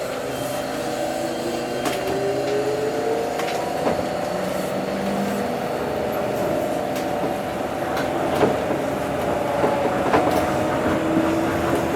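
Tokyo Monorail train running and picking up speed, its motors whining in several tones, some rising in pitch, over a steady rumble, with scattered sharp clicks.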